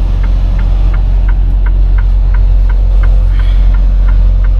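Semi truck's engine running with a steady low drone heard from inside the cab, with a turn signal clicking evenly, about three clicks a second, while the truck makes the turn.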